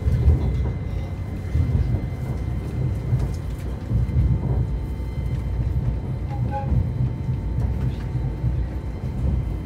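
Train running along the track: a continuous low rumble with irregular knocks and pulses, and a few faint steady tones above it.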